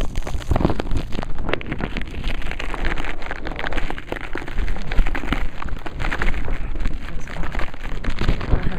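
Blizzard wind buffeting the microphone in a low, gusty rumble, with a dense spray of small ticks from blowing ice and snow striking.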